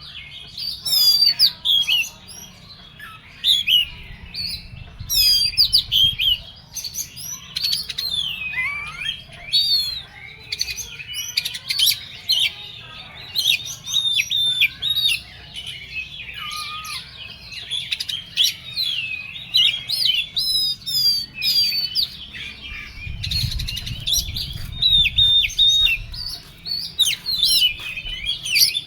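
Oriental magpie-robin (kacer) singing hard: a fast, continuous run of varied whistles, chirps and trills, the agitated 'emosi' singing that bird keepers prize in a fired-up kacer.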